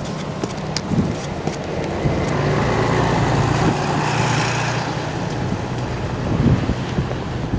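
Storm wind buffeting the microphone, with a motor vehicle passing on the road: its engine and tyre noise swells over a couple of seconds and then eases off. A few sharp ticks sound in the first second or so.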